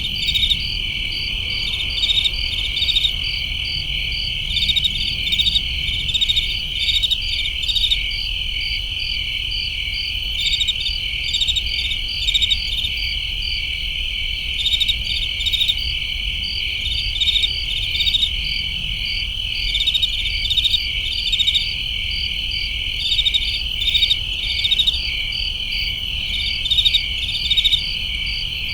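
Chorus of crickets chirping: a steady high trill, with louder runs of rapid chirps rising over it every second or two.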